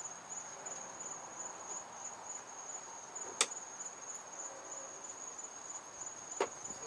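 A steady, high-pitched, evenly pulsing cricket trill runs throughout. Two sharp clicks of hand tools being handled cut in, a loud one about halfway through and a softer one near the end.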